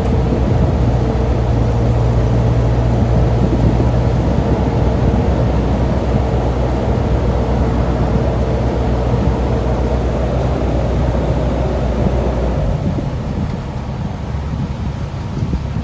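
Diesel engine of heavy equipment running steadily with a low hum, quietening about thirteen seconds in.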